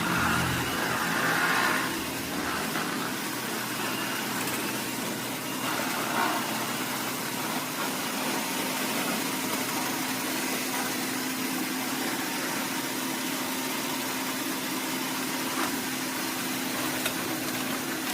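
eufy E25 robot vacuum-mop running over the floor, its suction giving a steady whirring hiss over a steady low hum.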